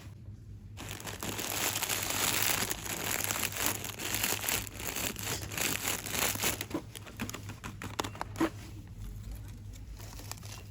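Hands crinkling and rustling crinkly packaging: a dense run of crinkling for several seconds, then sparser single crackles that ease off near the end.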